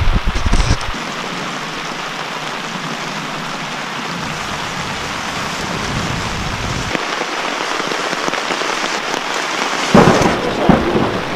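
Heavy rain pouring steadily onto a tarp overhead during a thunderstorm. Low, loud thumps come in the first second and again about ten seconds in.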